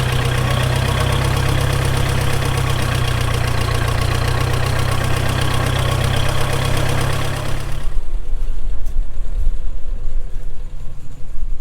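Tractor engine running steadily. About eight seconds in, the sound turns rougher and more uneven.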